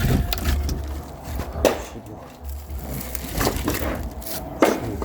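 Split firewood logs knocking together, a few sharp wooden clacks a second or so apart over a low rumble.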